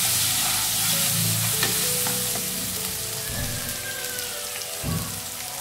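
Onion, tomato and spice masala sizzling in hot oil in a nonstick kadhai while a wooden spatula stirs and scrapes through it.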